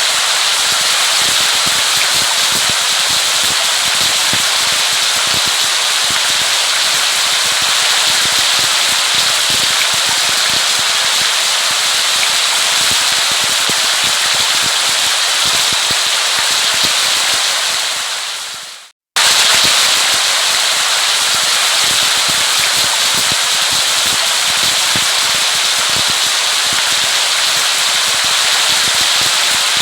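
Steady rain: an even hiss thick with the crackling patter of drops. About eighteen seconds in it fades out, falls silent for a moment, and starts again at full level.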